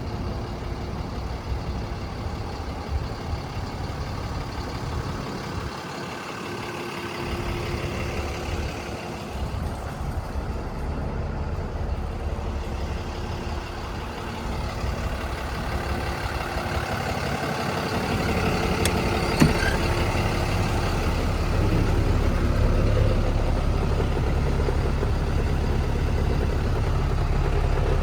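Kenworth T270 box truck's engine idling steadily, getting louder about two-thirds of the way through, with a single sharp click shortly before that.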